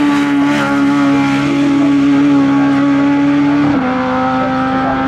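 Hill-climb race car engine running hard at high revs with a steady pitch, dropping a step about four seconds in at a gear change, then holding again.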